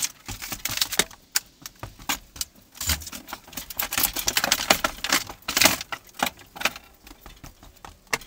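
Hand demolition of a camper's kitchen fittings: an irregular jumble of clicks, knocks and metallic rattles as parts and debris are pulled out and handled, with a duller thump about three seconds in.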